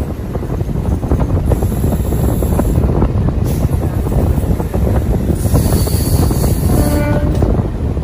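MEMU passenger train running along the track, heard from on board: a steady loud rumble with constant rattling of the wheels and coaches, and a brief steady horn-like tone about seven seconds in.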